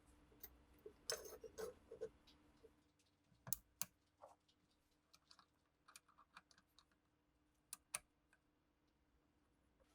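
Scattered light clicks and taps of small metal pistol parts being handled and fitted, with a quick cluster about a second in and sharper single clicks around three and a half and eight seconds.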